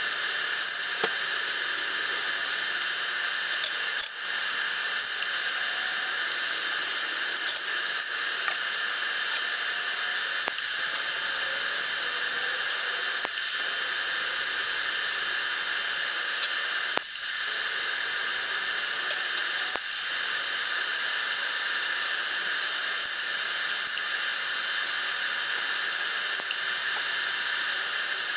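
Electric arc welding on steel bracket pieces: a steady frying hiss with scattered sharp pops, breaking off briefly about 4 seconds in and again about 17 seconds in as the bead is stopped and restarted.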